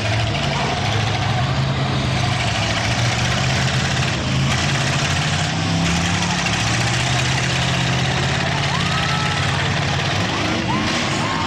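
Demolition derby cars' engines running in the arena, a steady, loud mechanical drone, with crowd voices mixed in and a few shouts near the end.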